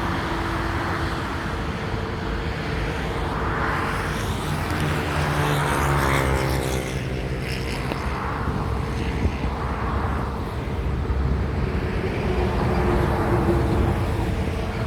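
Jet engines of a Boeing 747-400 freighter running, a steady rushing noise with a held hum. About six seconds in, a sweeping, phasing rise and fall as the aircraft passes.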